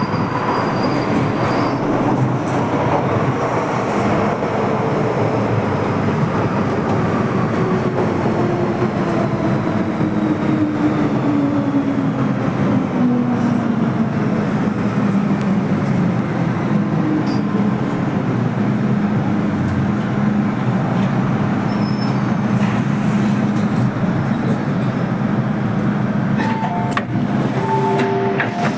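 MTR M-Train electric multiple unit running on the Kwun Tong Line, with a steady rumble of wheels on rail. Over it the traction motor whine falls slowly in pitch as the train slows, then holds a steady low hum. Short tones sound near the end.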